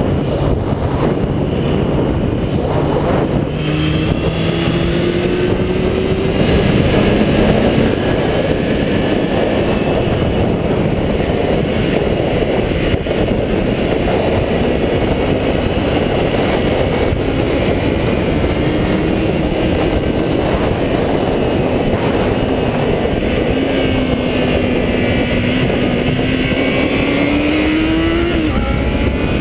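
400cc motorcycle engine revving high under way, its pitch climbing in several pulls through the gears, with heavy wind buffeting on the microphone.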